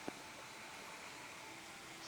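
Faint steady hiss of background noise, with one short click just after the start.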